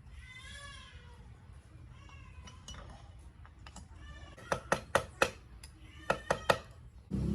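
A cat meowing twice, each call rising then falling in pitch, followed by a run of sharp knocks or taps in two quick groups of four and three. Just before the end a loud, low, steady sound starts.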